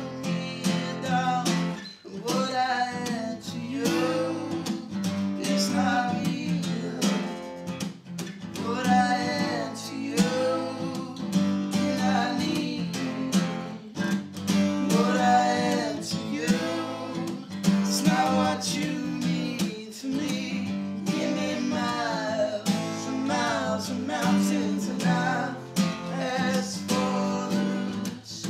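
A man singing a slow song over a strummed acoustic guitar, in sung phrases that break off every couple of seconds.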